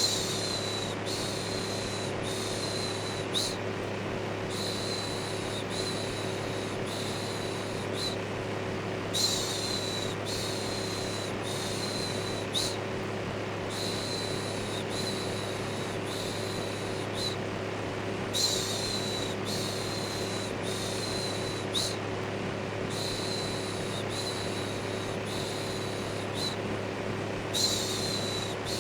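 Electric fan running steadily with a low hum, layered with a looped "shhh" shushing sound for soothing a baby: hissing strokes of about a second each, in groups broken by a brief pause every four to five seconds.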